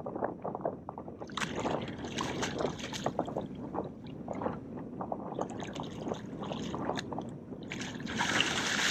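Hooked tarpon thrashing at the surface beside a skiff: water splashing and sloshing in several bursts, the biggest splash near the end.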